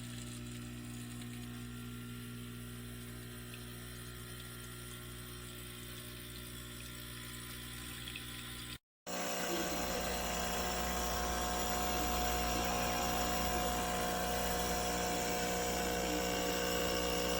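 An atatix 20-bar espresso machine's vibration pump humming steadily as it pushes water through the machine. About halfway it cuts out for a moment and comes back louder.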